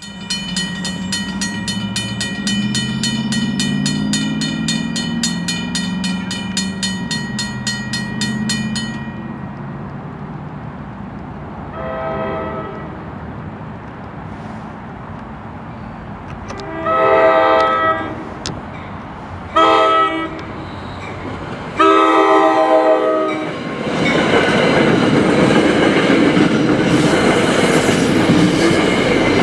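A bell rings rapidly and steadily for the first third, over a low engine drone that rises in pitch. Then an NJ Transit diesel locomotive's horn sounds two long blasts, one short and one long, the standard grade-crossing signal. In the last few seconds the train passes close by with a loud rumble and rail clatter.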